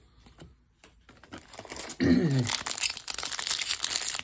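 Foil trading-card pack wrapper crinkling and tearing as it is handled. It starts about a second and a half in, after a few faint clicks.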